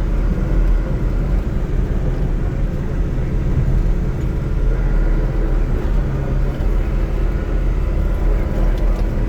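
Skid steer engine running steadily while plowing snow, a deep continuous drone with a steady engine note that firms up briefly around six seconds in.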